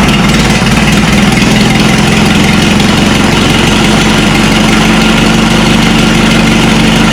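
Minneapolis-Moline tractor engine idling steadily, just brought back to life after sitting about five years.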